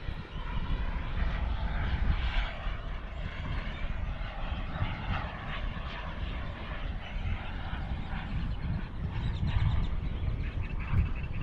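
Engine of an RC model L-39 Albatross jet flying overhead on its landing approach, gear and flaps down, a continuous noisy rush with a deep rumble underneath.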